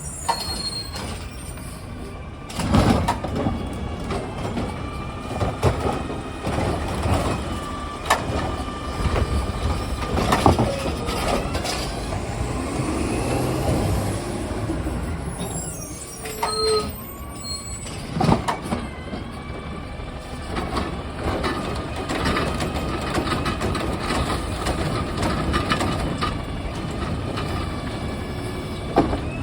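Recycling truck at work: its engine running, with whining hydraulics, air-brake hisses and several loud bangs and clunks spread through.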